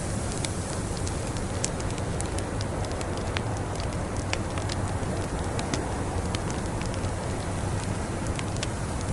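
Log fire crackling: a steady hiss and low rumble with irregular sharp pops and crackles scattered through it.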